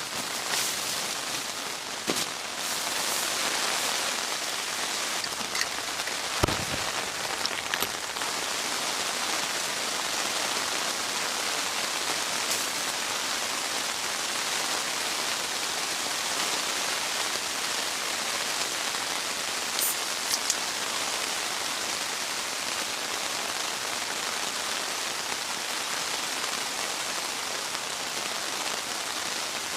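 Steady rain falling, with a few sharp taps now and then and one louder knock about six seconds in.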